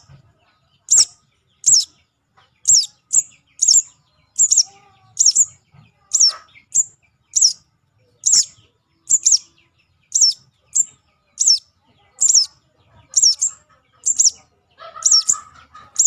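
Juvenile crimson sunbird (sogon) calling: a steady series of thin, very high chirps, each a quick downward sweep, about one to two a second. It is a fledgling's call of the kind played as a lure to draw small birds in.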